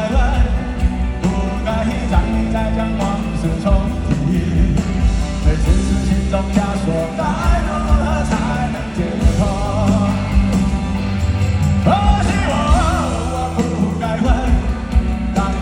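Live rock band playing, with a wavering lead melody over a steady bass and drum beat.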